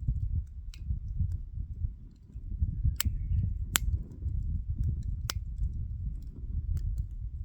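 Wood fire crackling, with scattered sharp pops, the three loudest about halfway through, over a steady low rumble.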